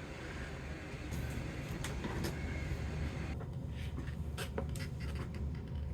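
A tool scraping and tapping at the back of a Minn Kota trolling-motor control board, working off its tough waterproof coating: scattered short scratches and clicks over a steady low hum, coming more often about three seconds in.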